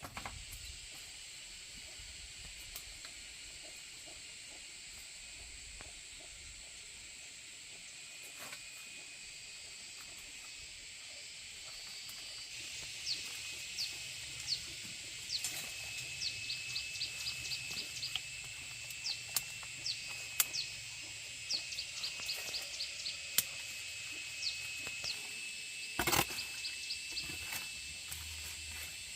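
Outdoor ambience with a steady high drone. From about halfway through, bursts of rapid short chirping animal calls and a few sharp clicks join in, with one louder knock near the end.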